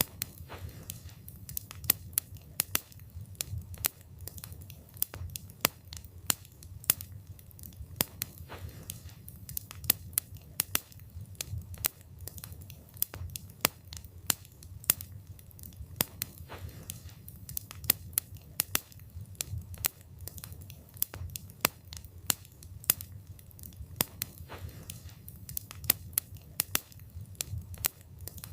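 Wood fire burning, with a steady low rumble of the flames and frequent irregular sharp crackles and pops from the burning wood, several a second.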